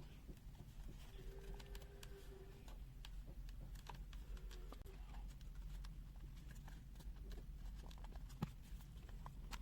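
Faint scattered clicks and light scrapes of a small screwdriver turning out the screws in the plastic back case of a multimeter.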